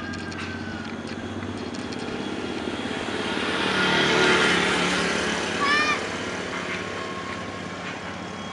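Fokker F28 Fellowship jet airliner's twin Rolls-Royce Spey turbofans on its landing pass, the jet noise swelling to a peak about four seconds in and then fading as the aircraft goes by.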